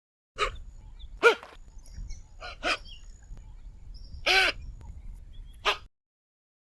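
An animal calling in a series of about six short, sharp calls over a low rumble. The calls stop about six seconds in.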